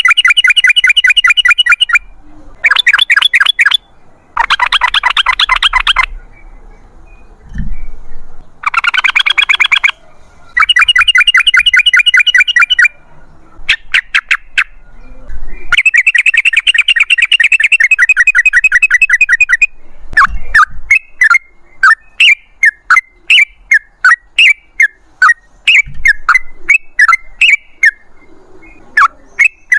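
Yellow-vented bulbul (trucukan) singing in fast chattering phrases, each two to four seconds long with short pauses between them. In the last third it breaks into separate sharp notes, about two a second.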